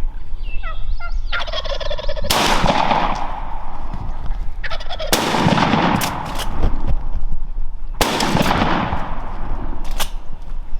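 Wild turkey gobbler gobbling three times, each gobble a long rattling call that fades out, after a short run of falling yelp-like notes near the start.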